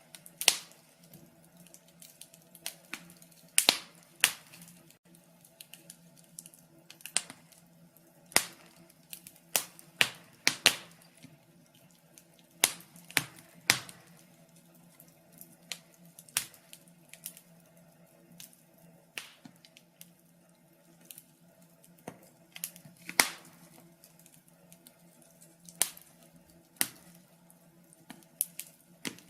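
Wood fire burning in a fireplace, crackling with irregular sharp pops and snaps, some louder cracks standing out among quieter ticks.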